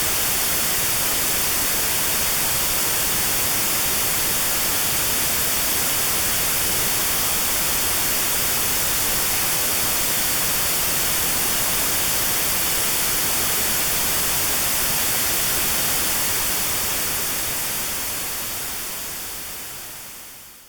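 Notch-filtered white noise for tinnitus sound therapy: a steady hiss with the band around 4 kHz cut out. About 16 seconds in it begins to fade, dying away to silence at the end.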